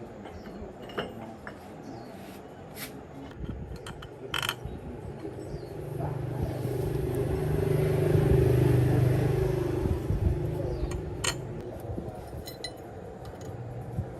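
A motor vehicle passing by, its engine swelling up over a few seconds and fading away again, with a few sharp metallic clinks of tools before and after.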